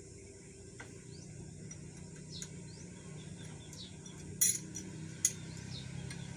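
Two sharp metallic clinks less than a second apart, from metal tools and engine parts being handled, over a low steady hum and faint bird chirps.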